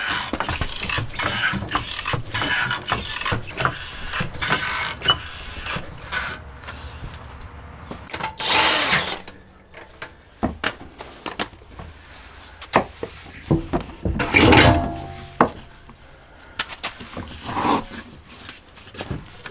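Hands-on work on a car: scattered clicks, knocks and scrapes of tools and parts being handled, with a longer scraping rush about nine seconds in and a louder one about fourteen seconds in.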